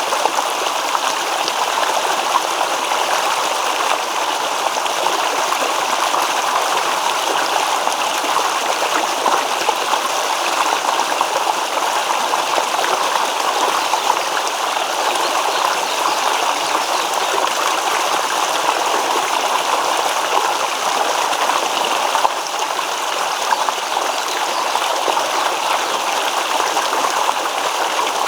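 Shallow stream babbling and splashing over stones in a steady, continuous rush of water, with fine gurgling ripples.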